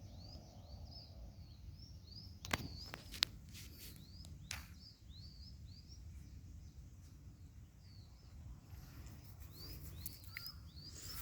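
A bird chirping over and over in short, high, curved notes, a few each second, over a faint low rumble. Two sharp clicks stand out about two and a half and three seconds in.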